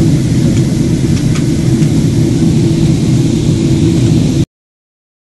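Passenger airliner cabin noise in flight: a steady, loud, deep roar of engines and airflow heard inside the cabin. It stops abruptly a little over four seconds in.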